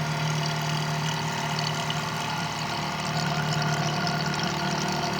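12-volt DC water pump motor starting up and running with a steady hum, water moving through it.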